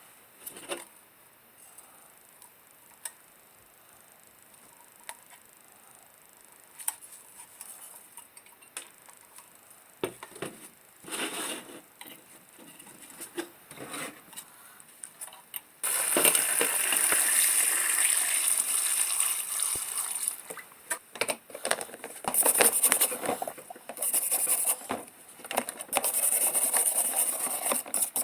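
Small clinks and knocks of the lantern's metal and glass parts being handled. Then, about halfway through, a loud hissing rush of water starts and runs in stop-start gushes as the parts are rinsed.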